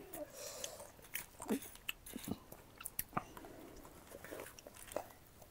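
Chewing a mouthful of chatpate, the Nepali puffed-rice snack, with irregular small crunches and clicks.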